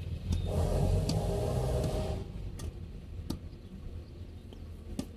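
A low engine or machine rumble for about two seconds, then faint background with a few scattered sharp clicks and knocks.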